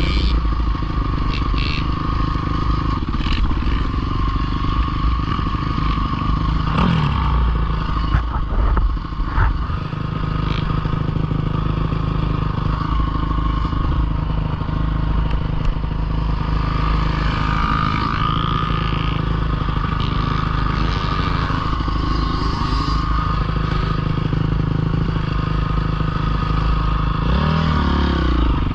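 Small dirt bike engine running steadily, with a few knocks and clatter and a couple of brief changes in engine pitch.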